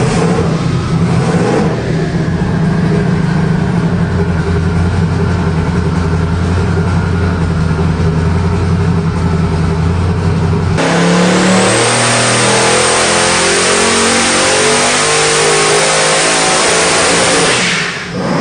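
Boosted 1450 hp LSX small-block V8 on an engine dyno, running steadily at low speed. About eleven seconds in it goes to full throttle for a loud pull, its pitch climbing for about seven seconds. It drops off sharply near the end as the throttle closes.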